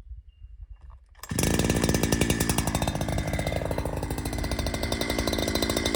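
Bumar-AG 82cc two-stroke chainsaw engine starting up about a second in, then running steadily.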